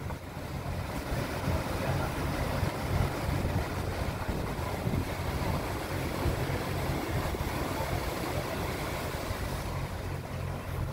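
Boat engine running steadily at low speed, with the rush of water filling a lock around it.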